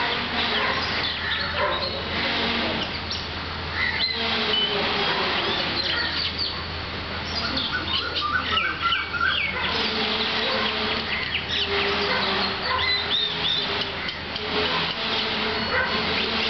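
A chorus of many birds chirping and calling at once, a busy overlapping run of short whistled notes and chirps, over a steady low hum.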